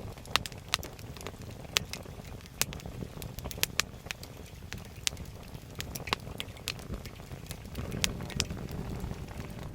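Wood campfire burning, crackling with sharp, irregular pops over a low steady rumble.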